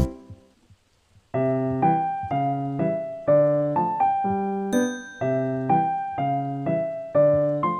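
Background music: a piece ends right at the start, and after about a second of quiet a gentle piano-like keyboard melody begins, about two notes a second.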